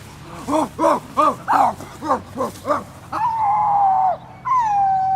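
Dog-like yips, about eight quick rising-and-falling calls, followed by two long held howls.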